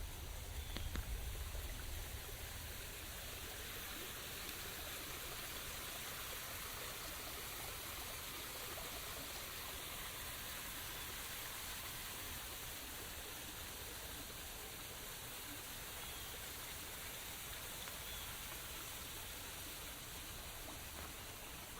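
Steady rain falling through forest foliage, an even hiss with no pauses. There are low bumps of rumble in the first two seconds.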